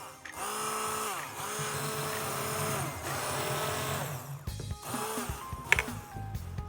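Background music with a small motor appliance whirring loudly for about four seconds, its pitch bending, then stopping suddenly.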